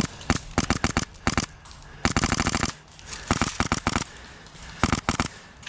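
Airsoft guns firing in rapid bursts of sharp snapping shots, with a longer continuous burst about two seconds in and shorter bursts before and after it.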